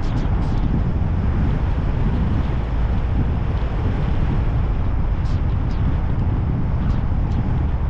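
Steady low rumble of a car driving along a road: engine, tyre and wind noise, with a few faint clicks in the second half.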